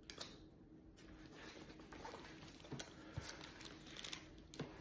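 Near silence with a few faint clicks and rustles: a picture book being opened and its pages handled.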